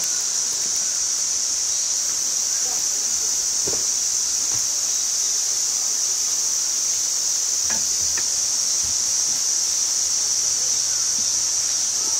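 Steady, high-pitched drone of insects in the trees, an unbroken summer chorus, with a few faint knocks about four and eight seconds in.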